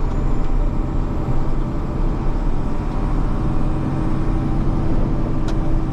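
Snowplow's engine running steadily under load, heard from inside the cab, with a brief click near the end.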